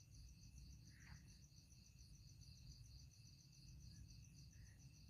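Near silence with faint crickets chirping in a steady, rapid pulse, about six chirps a second.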